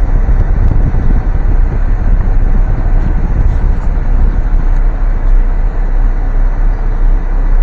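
A car driving slowly, heard from inside the car as a steady, loud low rumble.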